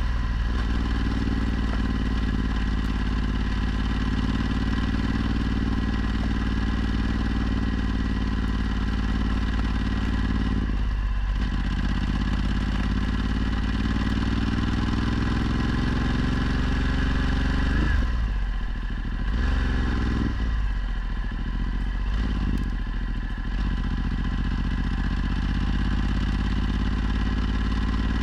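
Ducati Multistrada 1260's V-twin engine running under way through a Termignoni exhaust. Its note climbs slowly over long stretches, with a brief drop about eleven seconds in and several short drops in the last third.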